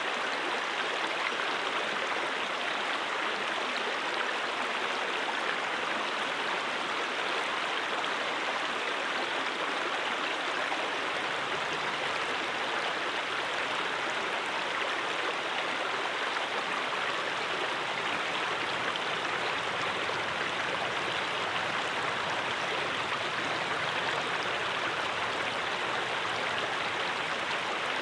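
A mountain stream flowing over rocks: a steady, even rush of running water with no change throughout.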